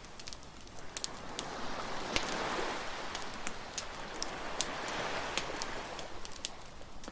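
Bonfire crackling, with many sharp pops and snaps at irregular intervals, over the wash of surf that swells and fades.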